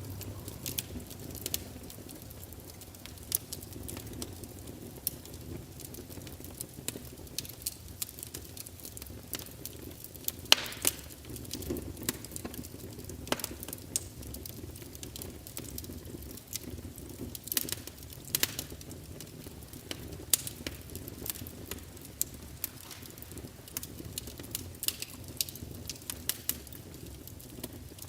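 Crackling fire: irregular sharp pops and snaps over a soft, steady low rush.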